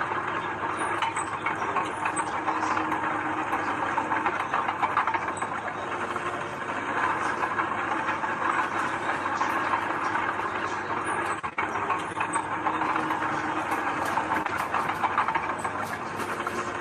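Heavy diesel earthmoving machinery working: steady engine noise with continuous metallic rattling and clanking.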